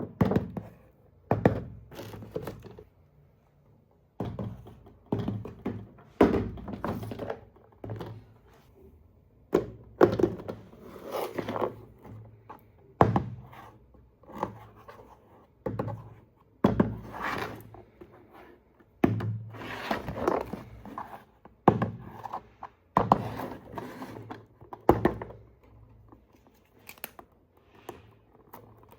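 A box and its packaging being handled: irregular thunks and knocks with some crinkling, in short clusters separated by pauses.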